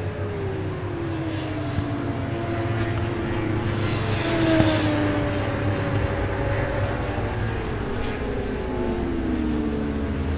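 Superbike racing motorcycle engines passing on track, more than one heard at once. One passes closest about four seconds in, and the engine pitches fall as the bikes go by.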